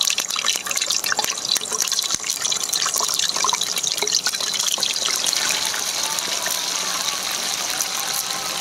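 Raw chicken pieces going into hot cooking oil in a karahi, sizzling and spitting. The crackle is thick with sharp pops in the first few seconds, then settles into a steadier sizzle.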